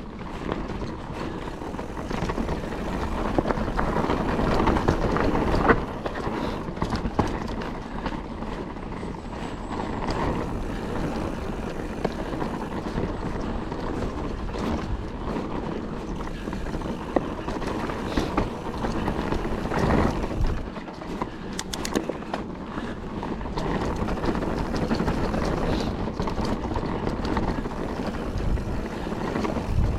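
Calibre Triple B mountain bike riding a dry, loose trail: a steady rush of tyre noise with frequent clicks and knocks of the bike rattling over rough ground, the sharpest about six seconds in.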